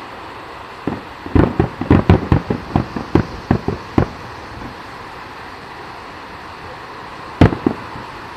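Fireworks exploding: a quick run of about a dozen bangs in the first few seconds, then a single loud bang near the end.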